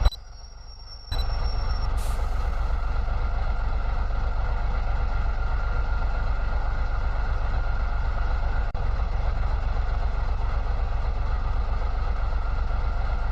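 Truck engine running steadily, a constant low rumble with a faint steady whine, after a quieter first second.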